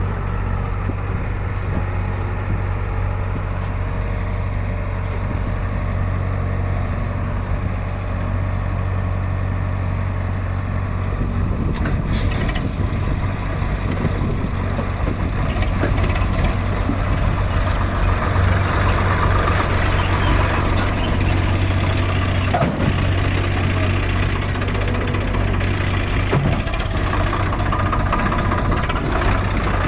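Diesel engine of a Hyundai 85 excavator running steadily under work, with a low drone throughout. From about halfway through it grows louder and busier, with a couple of short knocks.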